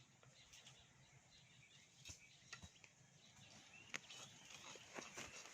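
Faint birds chirping in quiet outdoor ambience. A few light sharp clicks or taps come about two seconds in and again toward the end.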